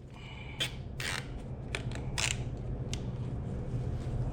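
Zip ties being pulled tight around a motorcycle frame: several short ratcheting zips, spread over a steady low hum.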